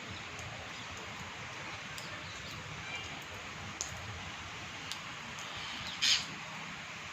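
A parrot gives one short, harsh call about six seconds in, over a steady background hiss with a few faint clicks.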